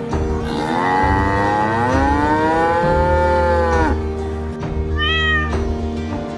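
Cat meowing: one long drawn-out meow that rises and then falls, then a short, higher meow about a second later, over background music.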